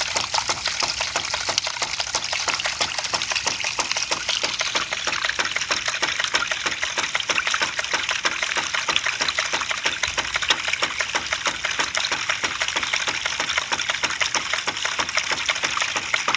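Homemade hydraulic ram pump running: its waste valve snapping shut over and over in a rapid, steady rhythm, several times a second, as the flowing water is stopped and released, with water splashing out around it.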